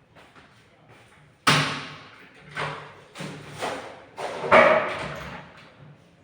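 A series of about six heavy thumps and knocks over some four seconds, the first about a second and a half in, each dying away with a short ring.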